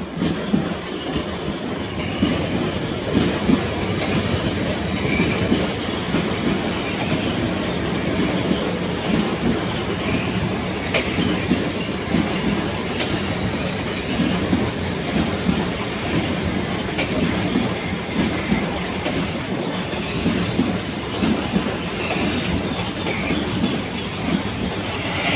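A train rolling on the rails with steady rumbling, wheels clicking over rail joints, and some wheel squeal.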